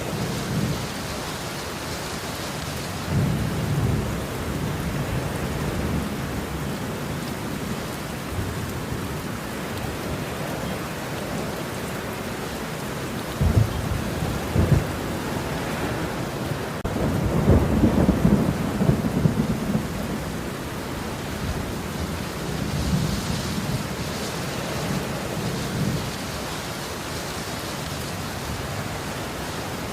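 Steady rain with rolling thunder. A few low rumbles come and go, a sharp clap about halfway through is followed by the longest and loudest roll, and a lighter rumble comes near the end.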